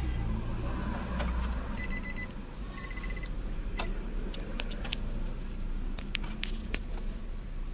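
Two short runs of rapid electronic beeping, about 2 and 3 seconds in, over a steady low rumble, followed by several sharp clicks.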